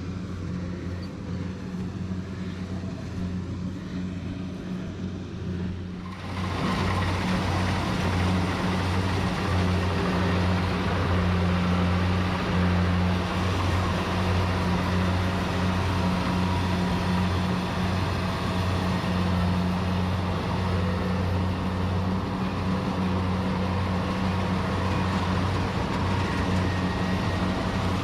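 Rice combine harvester's engine running steadily with a deep hum. About six seconds in it abruptly gets louder and brighter and stays that way.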